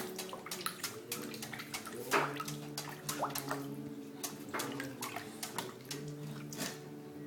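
English bulldog puppy pawing and digging in his water bowl: quick, irregular slaps and splashes of water, a few each second.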